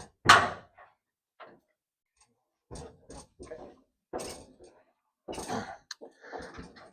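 A sharp metal knock, then a run of shorter clunks and knocks as a 1970 Dodge Challenger's door is unbolted and worked off its hinges.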